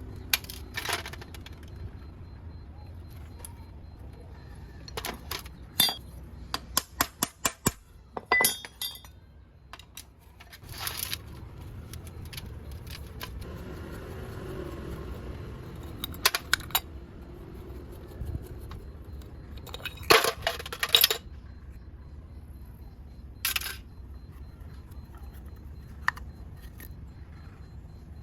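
Small metal parts and tools clinking and clattering on a work surface, in scattered knocks and clicks with a quick run of about a dozen light clicks around seven seconds in. These are the sounds of a motorcycle carburetor being taken apart and handled for cleaning.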